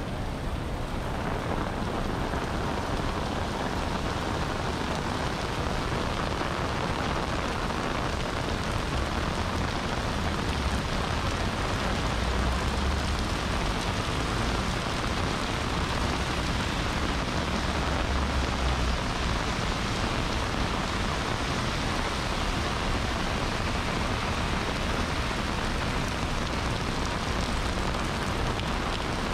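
Steady rain falling, a continuous even hiss, with a brief low rumble about twelve seconds in and again about eighteen seconds in.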